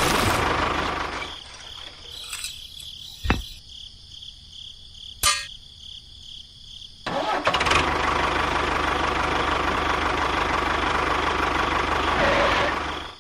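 A small motor runs, dies away about a second in, and after a quiet stretch with two sharp clicks starts up again abruptly about seven seconds in, running steadily until it cuts off at the end.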